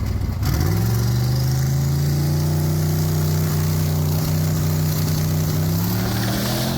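A Camaro's engine at the drag strip revs up sharply about half a second in, holds a steady high rpm for about five seconds, then climbs slowly in pitch near the end.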